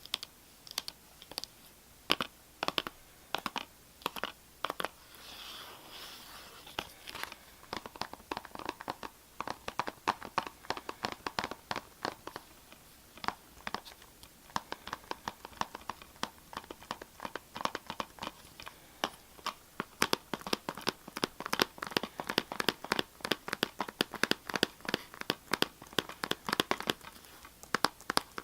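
ASMR tapping and scratching on a hard object: many quick, sharp taps in irregular runs, sparse at first and growing denser from about eight seconds in, with a short stretch of scratching around six seconds in.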